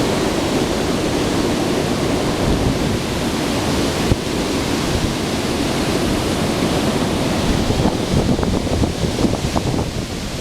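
Hurricane-force storm wind rushing steadily and buffeting the microphone, with a few short pops in the last few seconds.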